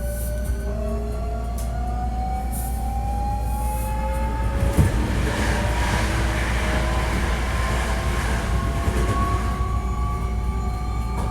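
Hankyu 1300 series electric train running, heard from inside the car: several whining tones from the traction motors and gearing climb slowly in pitch as the train gathers speed, over a steady low rumble. A sharp knock about five seconds in is followed by a few seconds of louder wheel-on-rail rushing. The unit is one noted for an unusual running noise.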